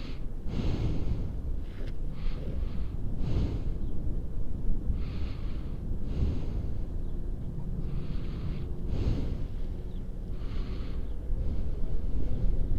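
A person breathing audibly close to the microphone, in and out every couple of seconds, over a steady low rumble.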